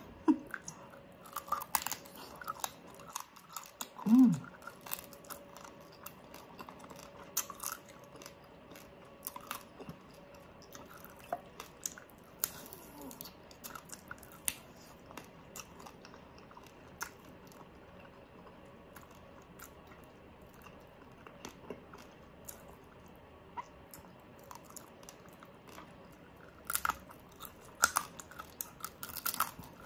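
Close-miked chewing and biting of crispy pata, baked pork knuckle, with many short, sharp crackling clicks from the skin and meat and a denser run of bites near the end. A brief vocal sound from the eater comes about four seconds in.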